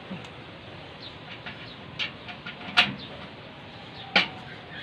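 Three sharp knocks or clicks over a steady hiss, about two, three and four seconds in, the middle one the loudest.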